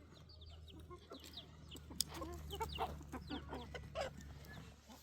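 Chickens clucking, with many short, high, falling chirps throughout and one sharp click about two seconds in.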